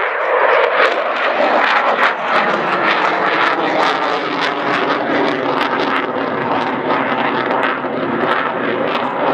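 Loud, steady jet noise from a Eurofighter Typhoon's two EJ200 turbofan engines as it flies a display manoeuvre, with a faint steady whine running through the rush from about three seconds in.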